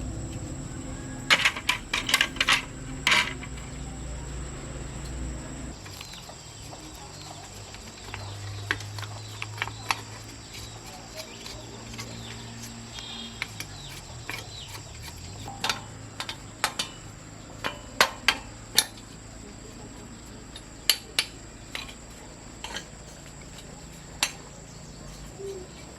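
Sharp metallic clinks and taps at irregular intervals, with a cluster about a second in and another near the middle, over a low steady hum that shifts pitch a few times.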